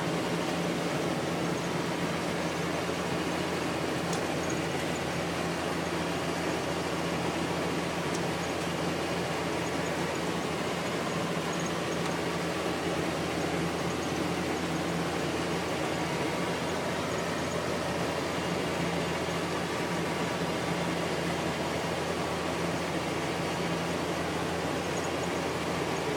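Steady vehicle noise: an even rumble with a constant low hum that does not change.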